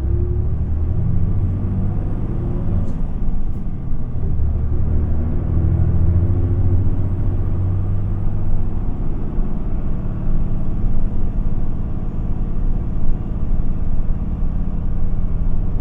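Isuzu Erga (QPG-LV234L3) city bus diesel engine heard from inside the cabin, pulling away and accelerating: its note rises twice, then it runs on steadily under road rumble.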